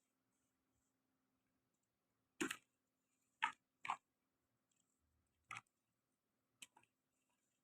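Dry, dusty blocks crumbling in a few short, sharp crunches, about five, irregularly spaced a second or so apart, with near silence between them.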